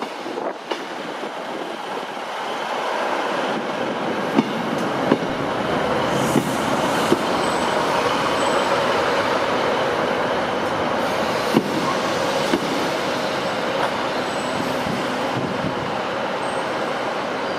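A passenger train running on the main line. Its wheel-and-rail rumble grows louder over the first few seconds and then holds steady, with occasional sharp clicks as the wheels cross rail joints.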